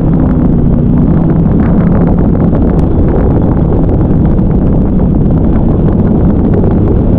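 Duck boat's motor running steadily under way, with heavy wind buffeting the microphone.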